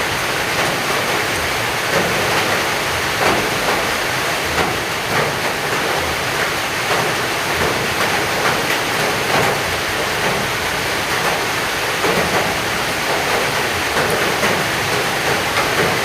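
Heavy rain pouring steadily, a dense unbroken patter of drops.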